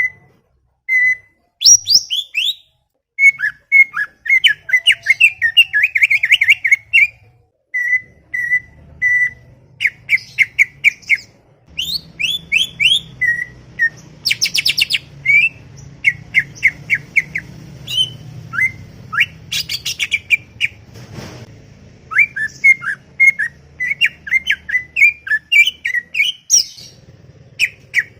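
Cucak ijo (green leafbird) singing at length in rapid chattering phrases: strings of short notes with quick upward sweeps and buzzy trills, broken by brief pauses. A faint low hum sits underneath.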